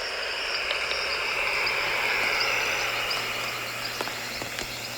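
Tropical rainforest chorus of insects and frogs: a dense buzz that swells up about two seconds in and fades back, over a steady pulsing high trill.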